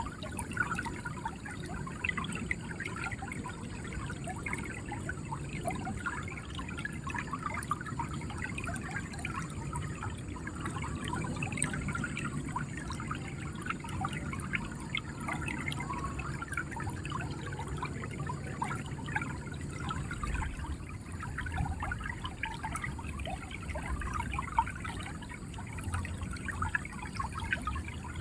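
River water flowing steadily, gurgling and trickling.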